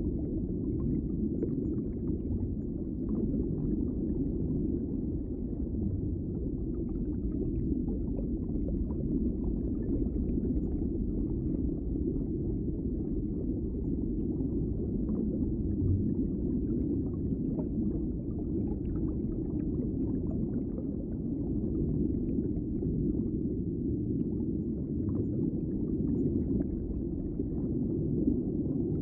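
Underwater ambience: a steady, muffled low rumble of moving water, with faint crackling flickers above it.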